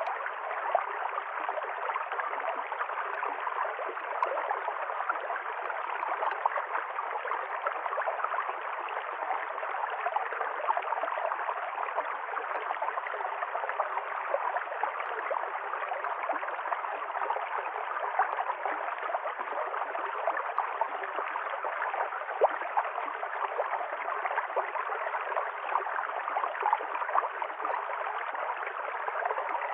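River stream flowing, a steady, even rush of water that holds the same throughout.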